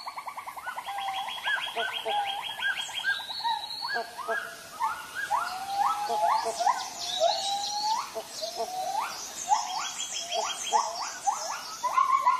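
Tropical forest bird chorus: many overlapping calls, short notes sweeping upward in pitch repeated over and over, over steady rapid trills.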